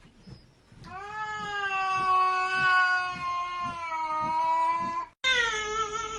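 A domestic cat yowling: one long, drawn-out call held at a steady pitch for about four seconds. It cuts off abruptly and another loud cat call starts, falling in pitch.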